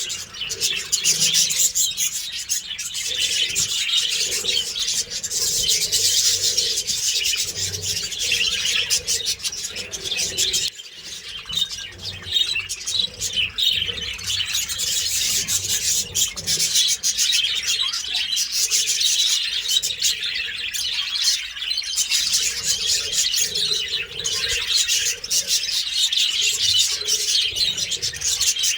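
A flock of budgerigars chattering continuously, many small parrots chirping and warbling at once.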